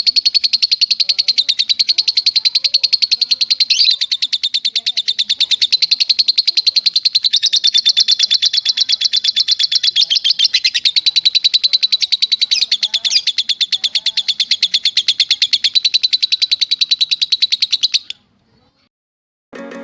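Recorded songbird giving one long, rapid trill of high chirps, repeated evenly and unbroken, which stops suddenly near the end.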